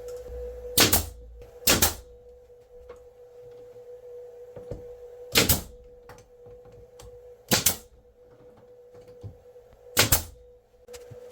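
Five sharp knocks, spaced unevenly a second to a few seconds apart, over a faint steady hum.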